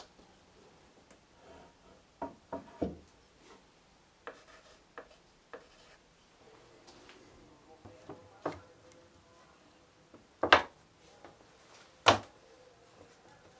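Beech boards being handled on a wooden workbench: irregular light wooden knocks and rubbing as the pieces are shifted and marked, with a cluster of knocks a couple of seconds in and two sharper, louder knocks in the second half.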